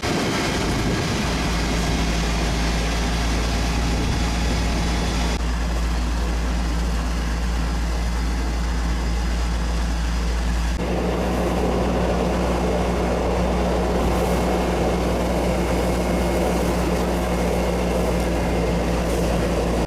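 An engine runs steadily under a loud rushing noise. The sound changes abruptly about five and eleven seconds in.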